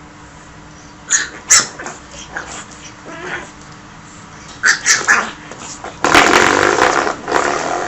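A dog vocalizing: a few short, sharp sounds spread through the first five seconds, then a louder stretch lasting nearly two seconds near the end.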